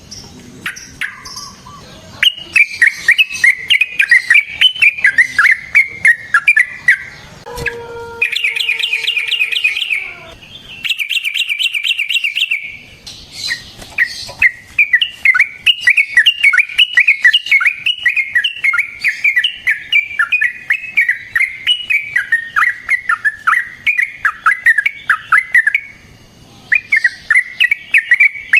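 Yellow-vented bulbul (trucukan) singing long, rapid runs of chattering notes, with two dense trilled stretches about eight and eleven seconds in.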